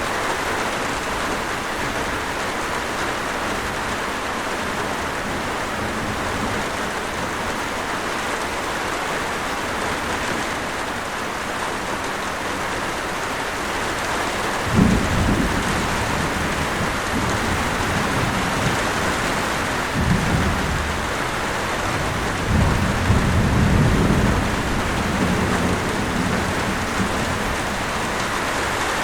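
Steady rain with thunder. A sudden thunderclap comes about halfway through, followed by further low rolling rumbles over the next ten seconds.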